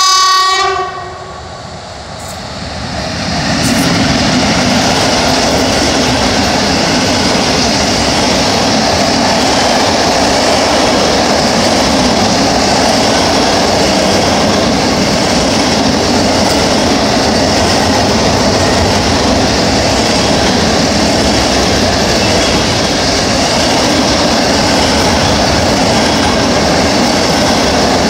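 ET22 electric locomotive's horn sounds and cuts off about a second in. The noise then swells as the locomotive closes in, and a long intermodal container train rolls past with a steady, loud rumble of wheels on rail.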